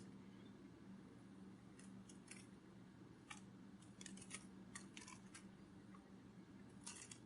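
Near silence: a faint steady low hum with about a dozen faint, irregular short clicks.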